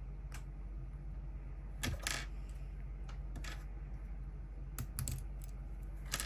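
Small plastic Lego pieces being handled and clicked together, giving scattered light clicks and clatters, a few in quick succession about two seconds in and again around five seconds in, over a steady low hum.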